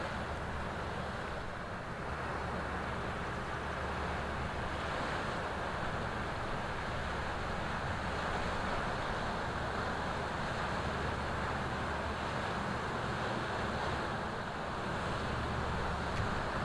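Steady low drone of a passing inland cargo ship's diesel engine, with wind rushing on the microphone.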